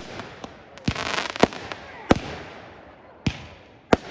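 Fireworks display: about seven sharp bangs of exploding shells, spaced unevenly up to a second apart, with a stretch of crackling about a second in.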